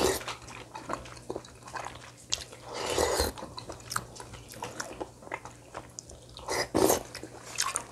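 Close-miked eating sounds: chewing and biting food, with scattered small clicks and two louder stretches, about three seconds in and near the end.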